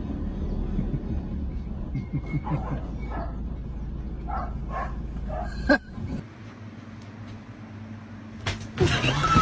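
A pet animal giving several short, high calls over a steady low rumble, with a sharp knock about six seconds in and a louder jumble of noise near the end.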